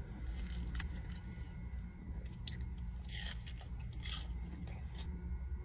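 Close-up chewing and biting into crispy fried Wingstop food, with several sharp crunches, the loudest about three and four seconds in, over a steady low hum.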